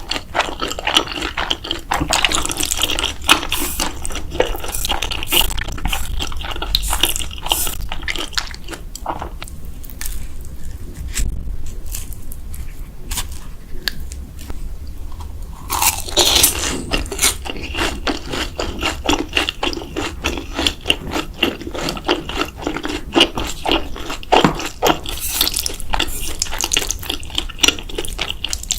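Close-miked mouth sounds of eating ramen: wet chewing and smacking in dense, irregular clicks. They ease off for several seconds in the middle, then start again.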